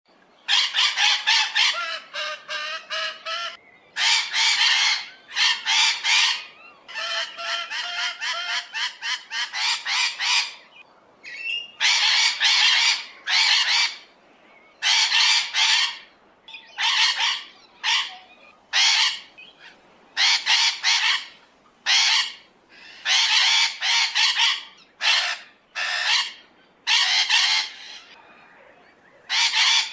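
Large birds calling: a long run of loud, harsh squawks and honks, some given as quick pulsed series, with short gaps between calls.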